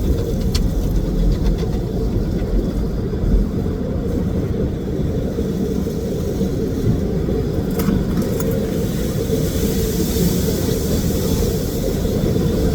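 Automatic car wash heard from inside the car: a steady low rumble, with a few clicks around eight seconds in and a high hiss building from about nine seconds in.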